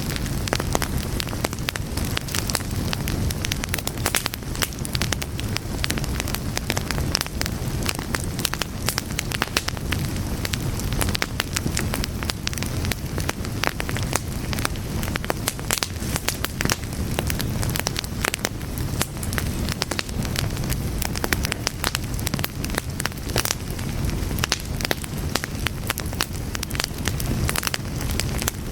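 Wood fire burning, with dense, irregular crackles and pops over a low rumble.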